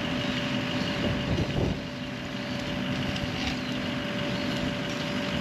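Steady drone of an idling engine: a constant hum with a held tone, and a few faint knocks about one and a half seconds in.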